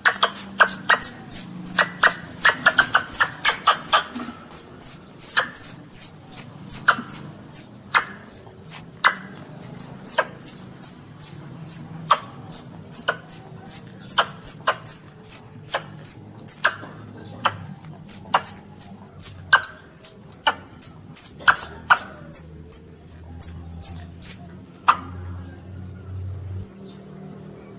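Baby Asian palm civet (luwak) calling: a rapid series of short, very high squeaks, each dropping in pitch, several a second, mixed with sharp clicks.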